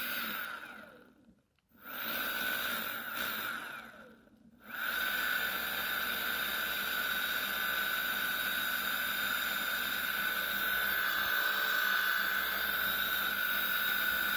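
Electric motor and its geared reduction, freshly fitted with new rotor tip and pinion gear bearings, run up twice briefly and then held running steadily for about ten seconds with a high whine. A lower-pitched noise remains in it, which the owner notices after the bearing change.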